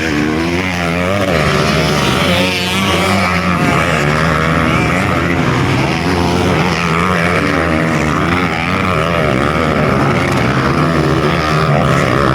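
Several motocross dirt bike engines running together, their pitch rising and falling as the riders work the throttles.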